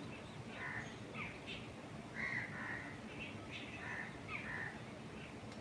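Birds calling in short, harsh notes, several a second and overlapping, over a steady hiss of wind moving through trees.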